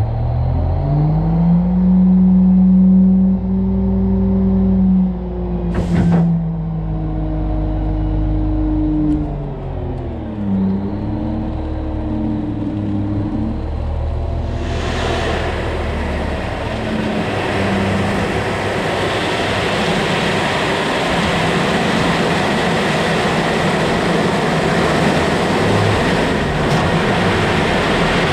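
Mack dump truck's diesel engine revs up and holds high for several seconds, then drops and wavers, with a sharp click about six seconds in. From about halfway through, a steady rushing hiss of gravel sliding out of the raised dump bed takes over.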